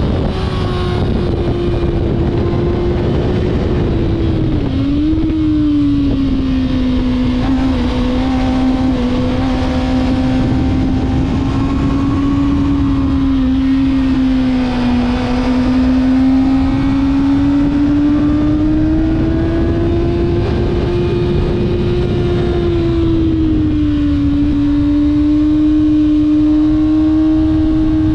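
Kawasaki ZX-6R's inline-four engine running at high, fairly steady revs on track, its pitch sagging and climbing slowly, with a brief dip and recovery about five seconds in. Heavy wind rush on the bike-mounted microphone.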